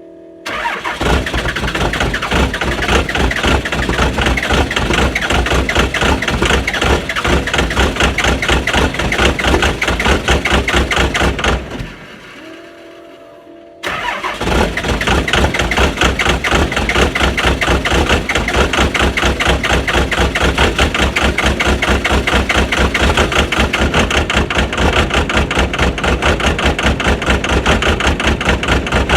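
A diesel engine being started in severe frost: it bursts into loud, rough, rhythmic cranking and running about half a second in. It breaks off near the middle, and after about two seconds of a quieter steady hum it starts again and keeps running.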